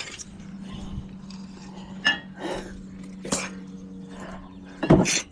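Light metallic clinks and knocks, scattered a few times, with a louder knock about five seconds in, over a steady low hum.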